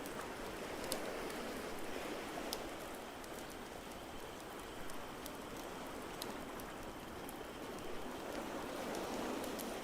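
Wood fire crackling with scattered sharp pops over a steady, gently swelling wash of ocean waves.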